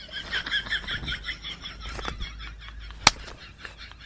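A bird calling in a fast, twittering run of short high chirps, about eight notes a second, which fades out after about two seconds. A single sharp click about three seconds in.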